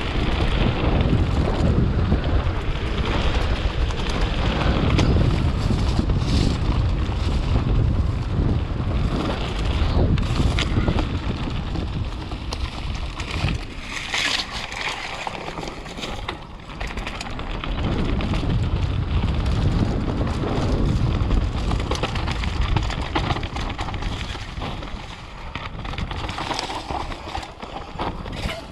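Wind rushing over the microphone and the rolling and rattling of a mountain bike descending a downhill trail at speed, with frequent knocks over bumps. It eases off for a few seconds about halfway through and again near the end.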